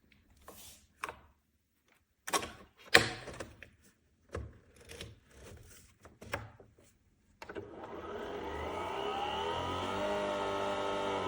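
Several clicks and knocks of plastic parts being handled. About seven seconds in, a Nespresso Vertuo Pop+ coffee machine starts with a steady whirring hum that rises in pitch as it spins the capsule to brew.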